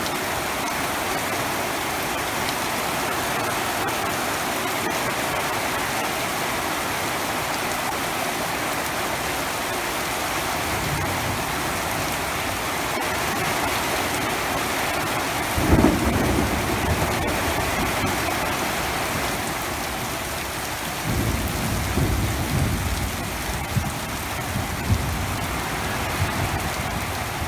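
Heavy rain falling steadily, with thunder: a sudden low rumble a little over halfway through, and further rumbling through the last several seconds.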